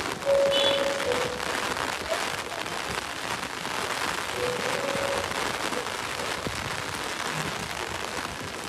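Heavy rain falling on wet stone paving, a steady hiss. A couple of brief faint tones come through it near the start and again about four and a half seconds in.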